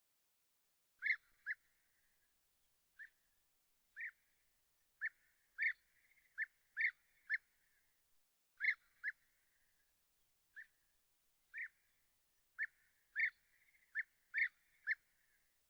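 A bird giving short, sharp single-note calls, about eighteen of them at uneven intervals of half a second to a second and a half, each with a brief echo trailing after it.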